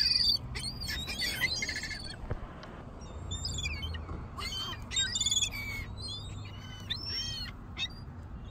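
A flock of seagulls squeaking and calling: many short, high calls overlapping in quick succession as they crowd in for bread.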